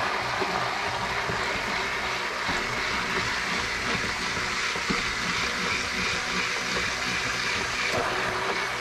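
Immersion blender running steadily in a pot of cooked tomato soup: a motor whine over the churning of the liquid as the tomatoes are puréed.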